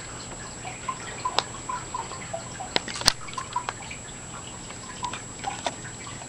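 A cat biting and tearing at a shoe: irregular small clicks and ticks, with one sharper click about three seconds in.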